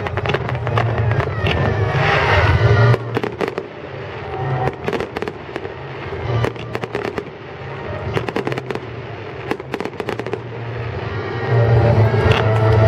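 Fireworks display: a rapid series of bangs and crackling bursts, with music playing alongside.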